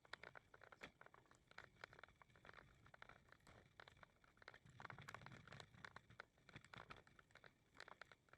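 Faint footsteps crunching on a path during a walk, many short irregular steps a second.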